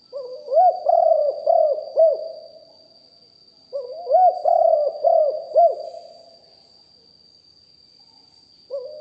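Spotted dove cooing: two phrases of several rising-and-falling coos, each about two seconds long. A third phrase starts near the end.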